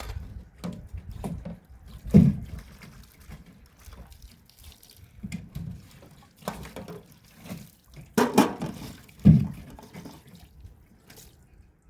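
Water splashing and dripping in irregular bursts, with two dull thumps, about two seconds in and again near nine seconds.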